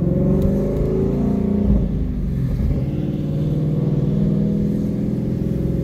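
A 2017 Ford Mustang GT's 5.0-litre V8 with a Corsa exhaust, heard from inside the cabin while driving. The engine note slides up and down with the revs for the first couple of seconds, then settles into a steady drone.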